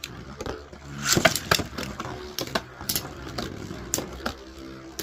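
Two Metal Fight Beyblades, Lightning L-Drago and Storm Aquario, spinning in a stadium with a steady whir and repeated sharp clacks as they collide, the loudest cluster just after a second in.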